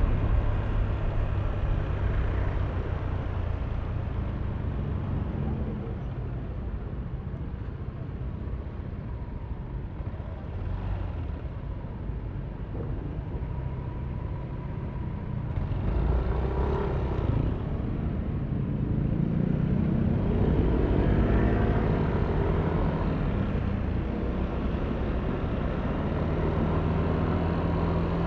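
Yamaha Aerox V3 scooter's 155 cc single-cylinder engine and CVT, heard from the rider's seat. It eases off and runs low for a while, then picks up again with a rising pitch about twenty seconds in, with other traffic around it.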